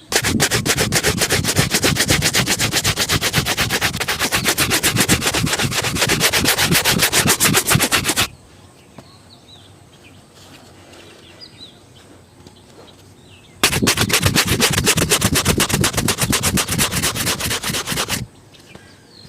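A shoe being polished with rapid back-and-forth rubbing strokes: two long runs of fast, even strokes, the second starting after a pause of about five seconds. Faint bird chirps sound during the pause.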